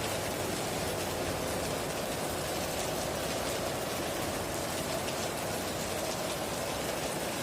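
Heavy rain falling steadily on a tin roof, an even hiss of drops.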